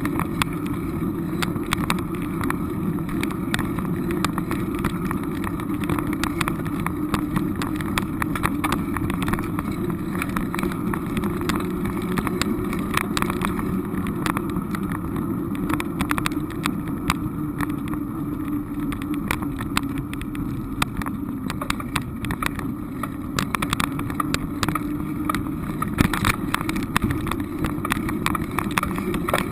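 Steady low rumble of a moving vehicle, with many small knocks and rattles throughout.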